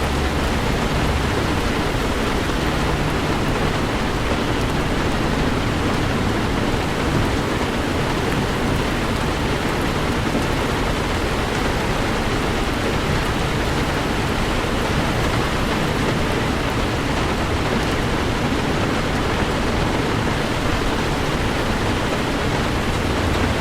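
Heavy rain falling steadily on a moving Toyota 4Runner, an even hiss with a low road rumble underneath.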